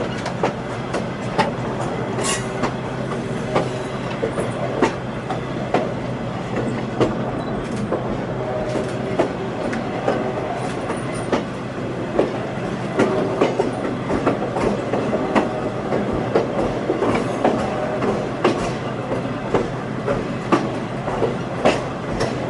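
Ride noise of a passenger railcar rolling along the track: a steady rumble from the wheels, with irregular clicks and knocks over rail joints.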